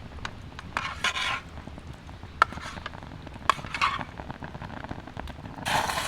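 Intermittent light clinks and short scrapes of a utensil against a pan or dish during cooking, with a faint sizzle beneath. Background music comes in near the end.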